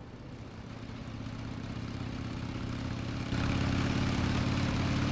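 Motorcycle engine idling steadily, growing louder over the first three seconds and stepping up suddenly a little over three seconds in.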